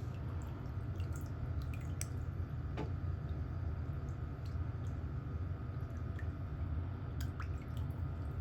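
Small, irregular clicks and soft ticks of pedicure hand tools working on a toenail, over a steady low hum.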